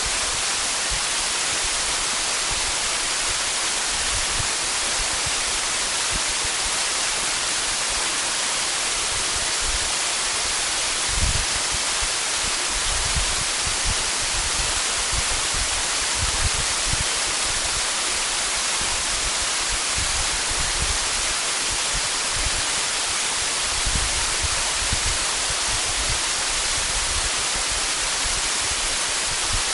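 Waterfall rushing in a steady, unbroken hiss, with occasional low bumps, the strongest about 11 seconds in.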